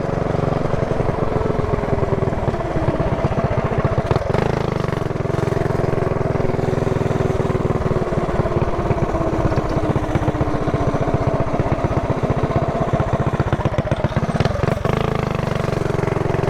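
Mini bike's small single-cylinder four-stroke pushrod engine running steadily under way, its pitch slowly easing lower partway through.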